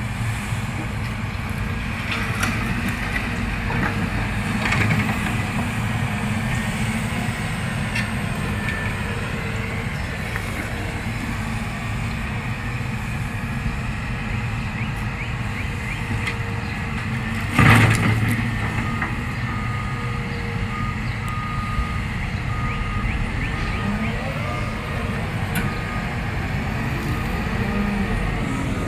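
Diesel engine of a Cat M322F wheeled excavator running steadily while loading trash, with one loud bang a little past the middle. After the bang a backup alarm beeps about once a second until near the end.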